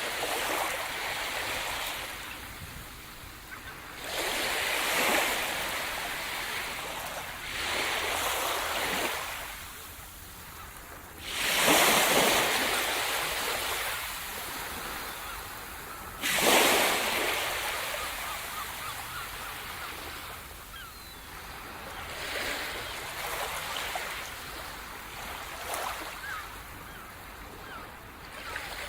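Sea surf: waves breaking on the shore every few seconds, each one a swelling rush of water that washes back and fades. The two loudest break about twelve and sixteen seconds in, the second with a sudden crash.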